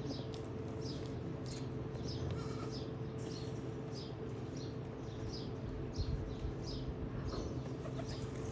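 A bird's short, high chirps, each falling in pitch, repeating about twice a second over a steady low hum.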